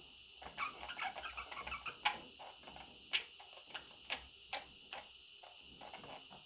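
Baby budgies making soft, short chirps mixed with scattered clicks and taps, the loudest about two seconds in.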